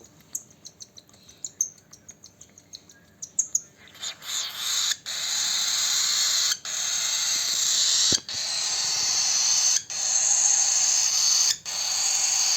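Baby cockatiel begging while being hand-fed. A few short high chirps come first, then about four seconds in it changes to a continuous raspy, hiss-like food-begging call, broken by brief pauses about every second and a half.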